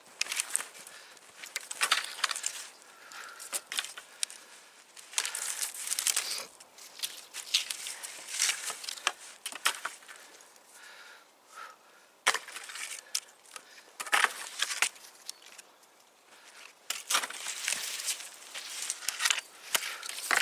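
Dry firewood being broken up by hand, irregular cracking and snapping of sticks with crunchy rustling and a few sharper knocks.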